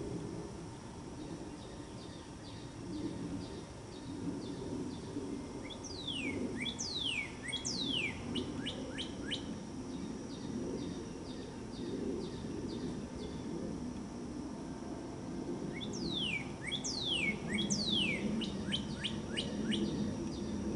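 Birds chirping: a steady run of short high chirps, about two a second, broken by two bouts of quick downward-sliding whistles about six seconds in and again about sixteen seconds in.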